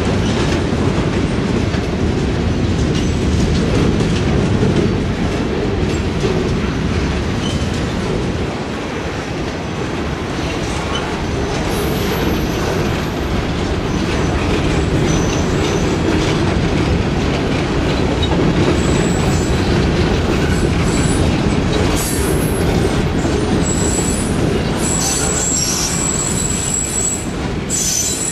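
Train cars rolling past on the track with a steady rumble and clickety-clack of the wheels over the rail joints, and high-pitched wheel squeals coming in about halfway through and growing more frequent near the end.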